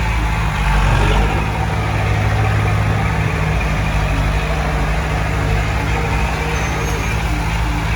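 Heavy diesel engine of earthmoving machinery running steadily, swelling slightly about a second in.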